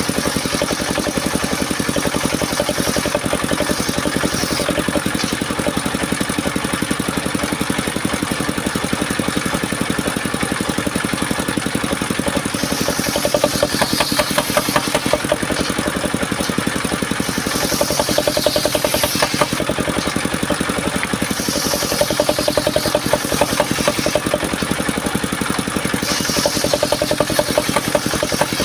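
Engine of a homemade circular sawmill running steadily. Several times, for a few seconds each, a louder, higher noise of the blade cutting through mahogany rises over it.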